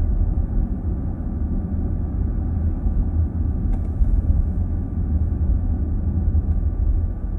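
Steady low road and tyre rumble heard inside the cabin of a car driving at speed, with a faint click about halfway through.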